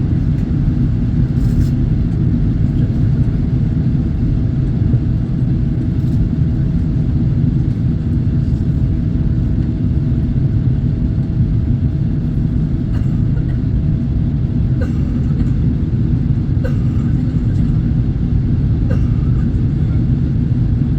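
Airliner cabin noise: a steady low rumble of the engines and airflow, with a faint steady hum that stops about two-thirds of the way through.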